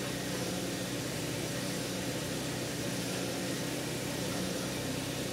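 Haval M6 at idle with its hydraulic power steering worked as the steering wheel is turned: a steady, even hum from the engine and steering system. The owner hears a slight hum from the steering rack and is unsure whether it will pass or whether the power steering fluid is due for changing.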